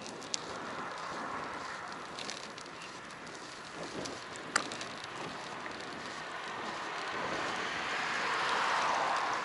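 Riding noise picked up by a bicycle-mounted action camera: a steady rush of wind and tyres with scattered small clicks and rattles. The rush swells louder about seven to nine seconds in, then eases.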